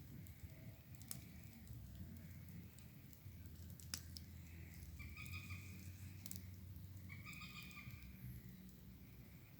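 Faint outdoor night sounds: a few sharp crackling clicks over a low rumble, and two held calls from an animal about halfway through and again near the end.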